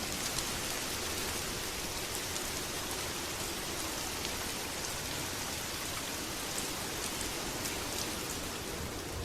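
Steady heavy rain falling, an even hiss with scattered sharp ticks of drops.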